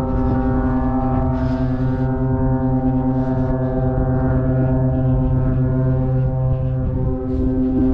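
Horn of a large river tanker sounding one long, unbroken blast: a deep note with many overtones. About seven seconds in, the lowest tone drops away and the horn turns a little higher and louder.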